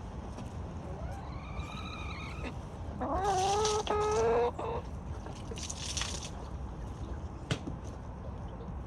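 Chickens calling: a quieter drawn-out call about a second in, then a louder two-part call a little after three seconds in. A single sharp click near the end.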